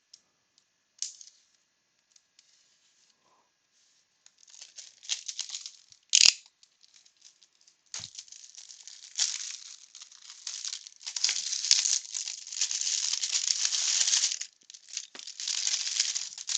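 Wax-paper baseball card packs crinkling and rustling as they are handled and lifted out of their box, with a sharp click a few seconds in. The first few seconds are nearly silent.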